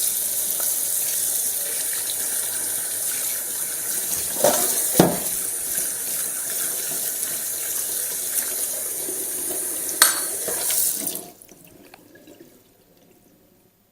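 Water running steadily from a tap into a sink, with a few knocks about four to five seconds in and again near ten seconds; the tap is shut off about eleven seconds in.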